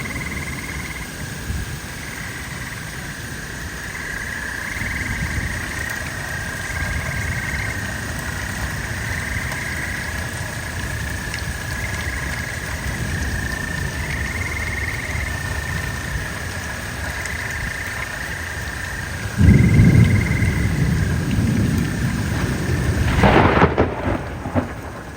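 Thunderstorm: steady rain with low rolling thunder, then a loud thunderclap about 19 seconds in that rumbles on for several seconds, with another swell of thunder just before the end.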